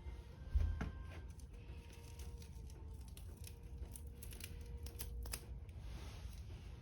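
Wood fire crackling, with scattered sharp pops and snaps over a low rumble; a single thump about half a second in.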